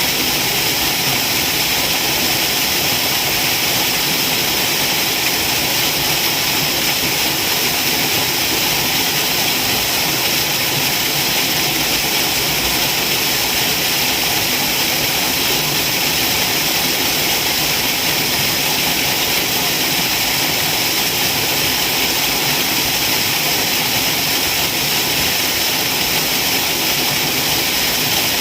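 Waterfall: a steady, unbroken rush of falling water, loud and even, with its strongest part in the hiss rather than in the low rumble.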